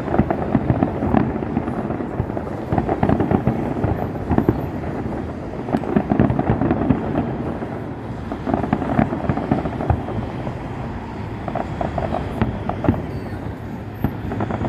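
Fireworks display: a dense, continuous run of bangs and crackling bursts, one after another with no pause.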